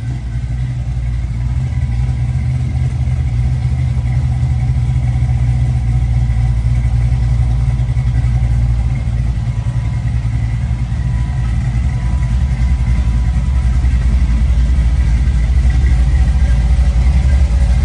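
Aluminum 6.0-litre LS V8 with an aftermarket camshaft, running steadily in an LS-swapped 1965 Chevy Nova; its exhaust note is deep and strong throughout, growing a little louder toward the end.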